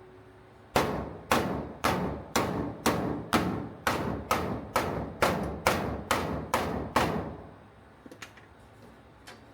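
A hammer striking in a steady rhythm: about fourteen blows, roughly two a second, each with a short ring, stopping about seven seconds in.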